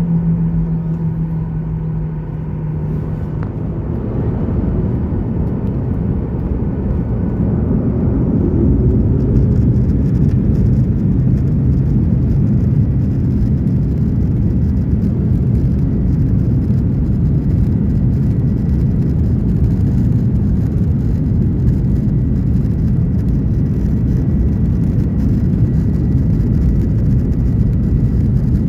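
Jet engines of a Boeing 737-900ER heard from inside the cabin, spooling up as for the takeoff roll. The rumble rises over about five seconds, then holds loud and steady with a faint high whine.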